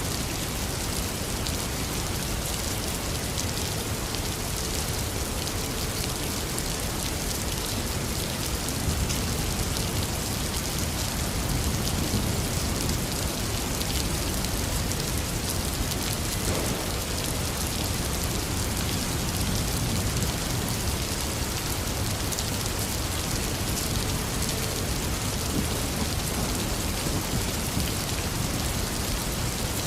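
Heavy rain falling steadily and densely, with low rumbles of thunder swelling twice, around ten and twenty seconds in.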